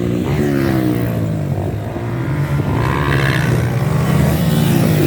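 Motocross dirt bike engines revving on the track, the pitch climbing and dropping over and over as the riders accelerate, shift and back off.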